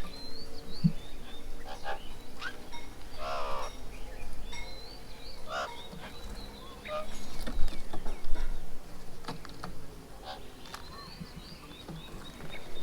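Several birds calling around a garden bird table: short high chirps and whistles throughout, with one louder, fuller call about three seconds in.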